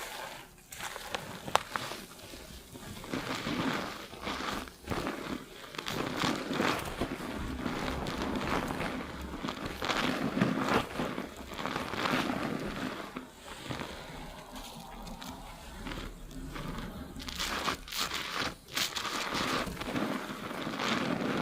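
Fingers scrubbing a lathered scalp and hair fast during a shampoo, wet foam noise in quick, irregular strokes that swell and fade.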